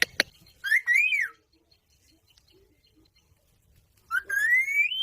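Parrot whistling: a short note that rises and falls about a second in, and a longer upward-gliding whistle near the end, with a sharp click just after the start.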